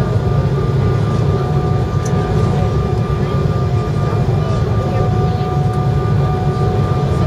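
Cabin noise inside an Embraer 190 airliner: a steady low rumble of its GE CF34 turbofan engines and airflow, with two steady whining tones on top.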